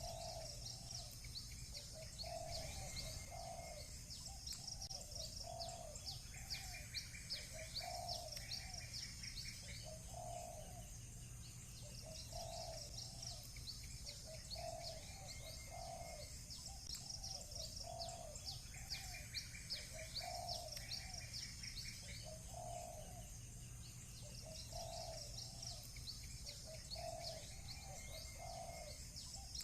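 Doves cooing in short, low repeated phrases every second or two. Over them runs rapid high chirping of small birds, with a buzzy trill now and then.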